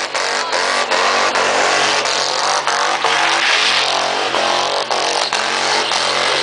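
Mini truck's engine revving hard during a burnout, stuttering briefly at intervals. A rushing tyre hiss swells midway.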